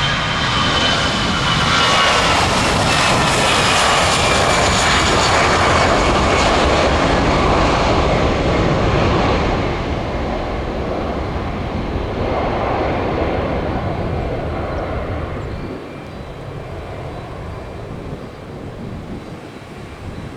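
Airbus A319 airliner's jet engines at takeoff power as it departs. A loud engine noise with high whining tones that fall slightly in pitch early on, fading over the last half.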